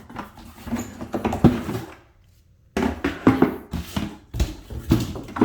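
Products and packaging being handled out of a box: rustling with a string of knocks and thumps, broken by a short pause about two seconds in.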